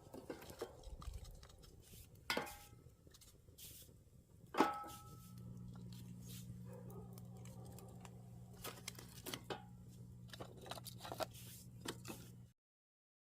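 Metal objects knocking and clinking, each knock ringing briefly, among smaller clicks and rustles. From about five seconds in, a steady low hum sets in, and everything cuts off abruptly near the end.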